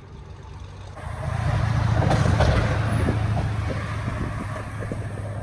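Straight-piped 2011 Camaro SS 6.2-litre V8, catalytic converters removed and fitted with an H-pipe and Borla ATAK mufflers. Its exhaust swells loud about a second in as the car pulls away, then holds a deep, steady note.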